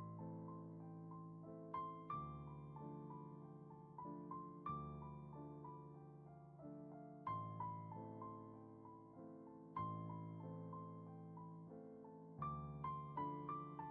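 Soft, slow solo piano music: single notes and chords struck and left to ring out, with a small run of quicker notes near the end.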